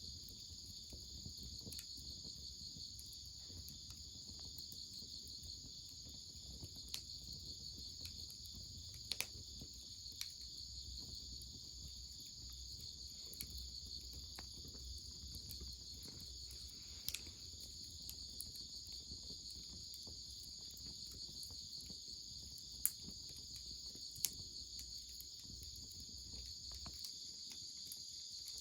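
Steady chorus of crickets chirping, with a scattering of sharp pops and snaps from a crackling wood fire, the loudest two close together near the end.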